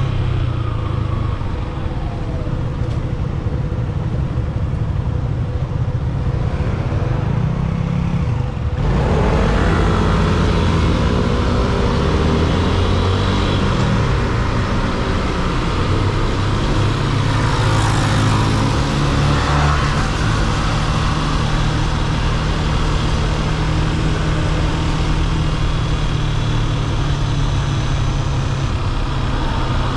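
Yamaha FZ-S V3 150cc single-cylinder motorcycle engine running while being ridden, with wind and road noise on the microphone. About nine seconds in the sound gets louder and brighter, and the engine pitch rises and falls through the rest of the stretch.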